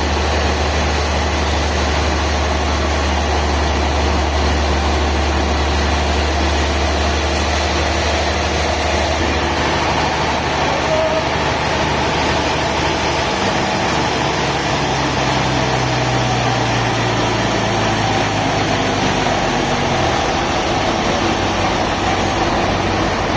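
A heavy engine running steadily at idle, its low note shifting about halfway through and again a little before the end.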